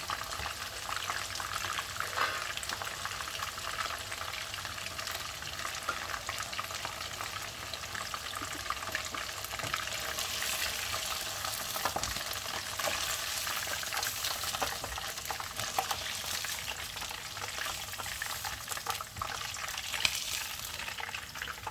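Marinated chicken pieces sizzling steadily in hot oil, with fine crackles, as they fry to golden brown.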